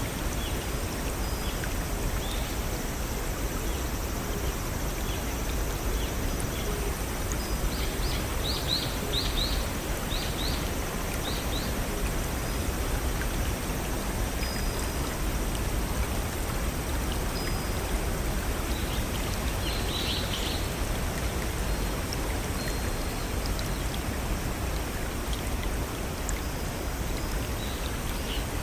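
Brook and small waterfall flowing steadily, with birds chirping in short quick runs, once about eight seconds in and again around twenty seconds.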